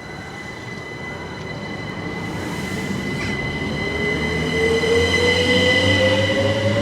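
Passenger train approaching and growing steadily louder, with a steady high-pitched squeal throughout and a whine that rises in pitch over the second half.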